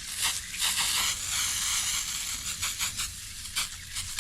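Coil cleaner being sprayed onto an HVAC evaporator coil, hissing in repeated spurts, the longest about a second in.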